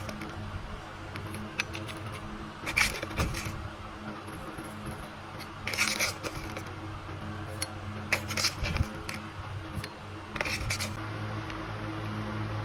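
Food being prepared: several short bursts of clicking and scraping, as from utensils or a knife against a board or dish, over a steady low hum.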